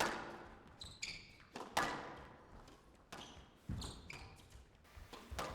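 Squash rally: the ball cracks off rackets and the court walls in sharp knocks roughly every second, with shoes squeaking on the court floor between them.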